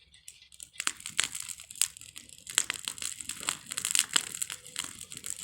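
Dense, irregular crackling and crunching of dry material, starting about a second in.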